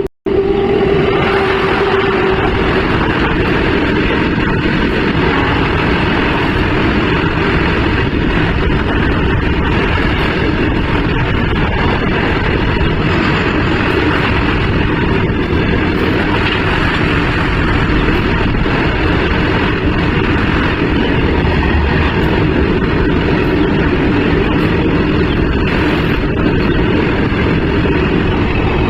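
WAG-9 electric locomotive running with its train, a loud, steady rumbling noise throughout, with a steady hum that fades over the first few seconds.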